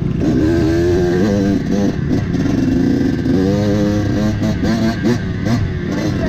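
Dirt bike engine revving up and down in short throttle bursts, its pitch rising and falling again and again.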